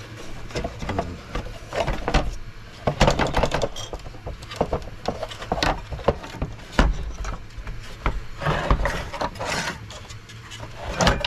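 Irregular clicks, knocks and rubbing as the casing of an all-in-one diesel heater is handled and pulled apart.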